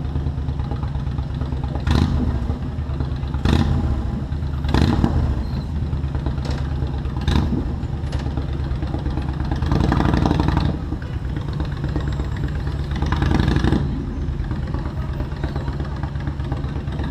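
Motorcycle engine running steadily while riding through city traffic. Several sharp clicks come in the first half, and two louder noisy swells rise and fall about ten and thirteen seconds in.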